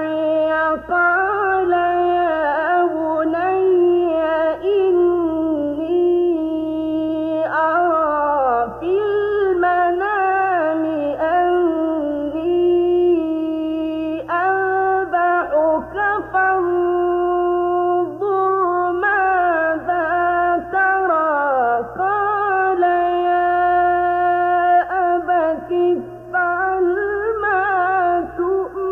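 Quran recitation by a male reciter in a slow, melodic tajweed style: long held notes with ornamented turns, broken by short pauses for breath every few seconds.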